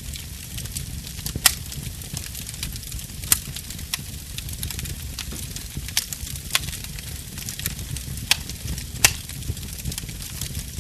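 Wood fire burning: a steady low rumble of flame with irregular crackles and sharp pops of the burning wood, the loudest pops about one and a half seconds in and about nine seconds in.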